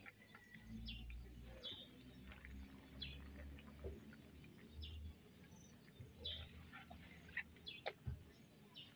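Faint, scattered bird chirps over a faint low rumble.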